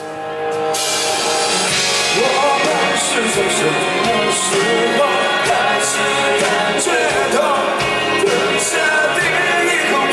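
Rock band playing live with a lead singer; the full band comes in under a second in, and the vocal melody enters shortly after.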